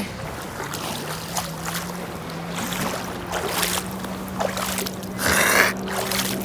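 A motorized watercraft's engine droning steadily at one low pitch, over sloshing water, with a brief rush of noise about five seconds in.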